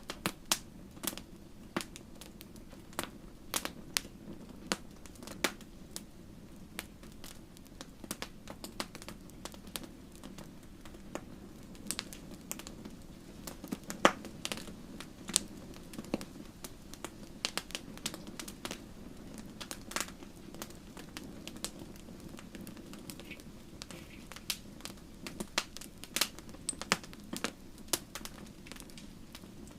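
Wood fire in a fireplace crackling: sharp, irregular pops and snaps over a steady low rumble of burning.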